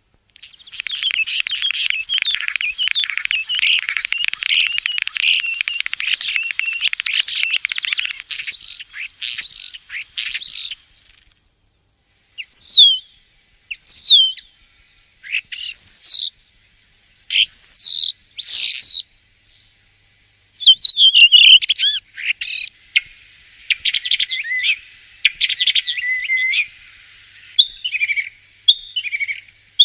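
Common starling singing. It starts with a long rapid chatter, then after a brief pause gives a series of loud separate whistles, several sliding sharply downward, and ends in a jumble of warbles and clicks.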